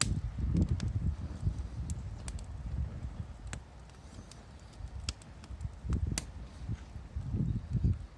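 Wood fire burning, with sharp crackles and pops scattered irregularly over a low, uneven rumble.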